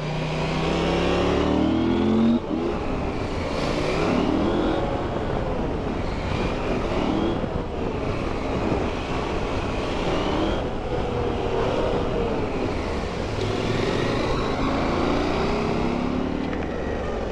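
KTM 790 Adventure's parallel-twin engine pulling through the gears on a winding road, rising in pitch and dropping back at each shift several times, over a steady rush of wind and road noise.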